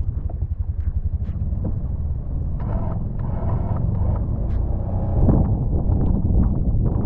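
Can-Am Defender side-by-side's engine running under load, a rapid low pulsing throughout with a few clicks and knocks over it.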